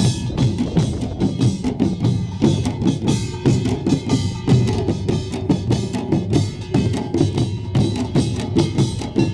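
Korean pungmul percussion band playing a fast, driving rhythm: small kkwaenggwari gongs clanging in rapid strokes over buk barrel drums, with the ringing of a jing gong.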